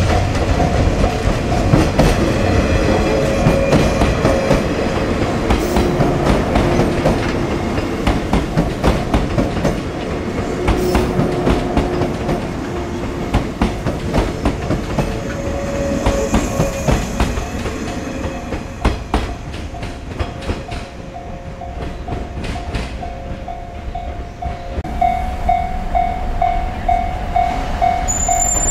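Electric passenger train running past, its wheels clattering over rail joints, the noise easing off about three quarters of the way through. A fast repeating tone starts near the end.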